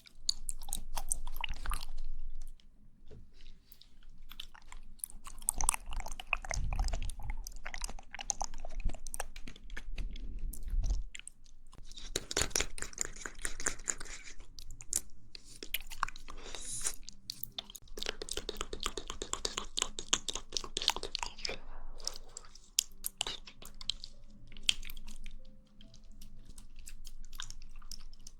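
Close-miked wet mouth sounds of jelly being chewed and squished: dense sticky clicks and squelches in bursts of a few seconds, with short pauses between them.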